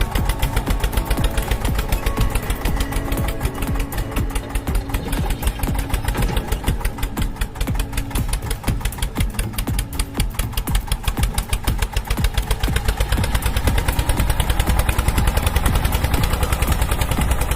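Mini tractor engine sound, a fast, steady chugging that grows a little louder over the last few seconds.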